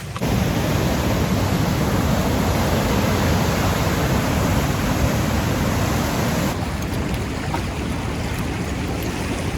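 Steady rushing of fast river water, the dense roar of rapids, with a slight drop in level about two-thirds of the way through.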